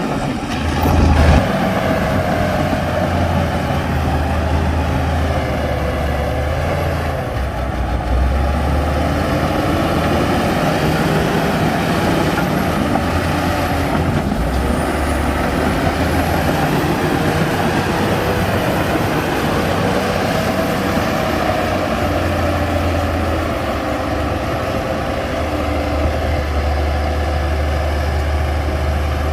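Heavy diesel earthmoving machinery running under load, engine pitch slowly rising and falling.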